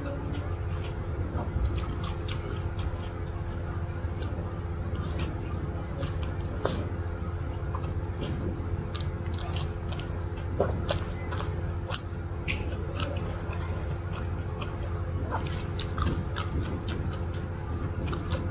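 Close-up biting and chewing of a soft burger dripping with melted cheese sauce: wet mouth clicks and smacks scattered throughout. A steady low hum runs underneath.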